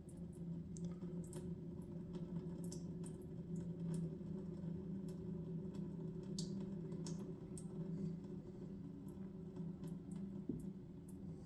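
Irregular light clicks and taps of small parts and hand tools being handled, over a steady low hum.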